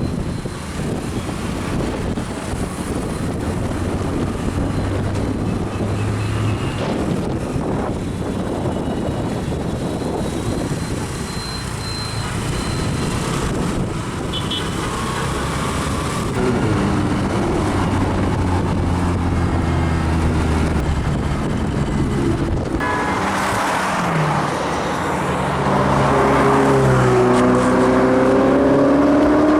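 Road traffic noise, then a car engine revving. From about halfway there are repeated rises in engine pitch, and near the end a strong, rising run as a car accelerates hard and grows louder.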